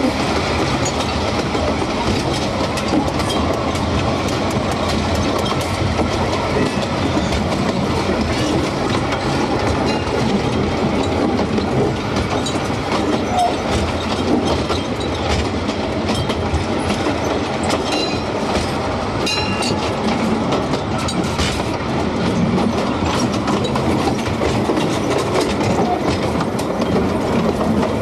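Small steam train's cars rolling along the track: a steady rumble and rattle with clickety-clack of the wheels over the rail joints.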